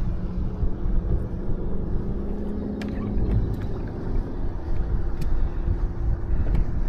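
Boat motor running steadily, with low wind rumble on the microphone.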